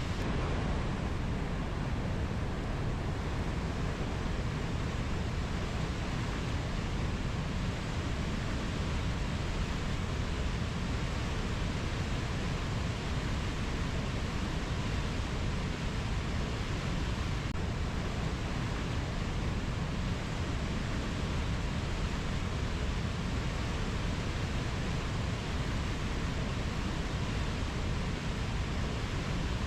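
Rainforest ambience: a steady, even rushing noise, heaviest in the low end, with no distinct calls standing out.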